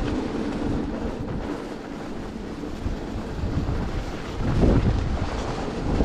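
Wind buffeting the microphone while riding an electric bike through a blizzard, a dense rushing noise that grows louder about four and a half seconds in.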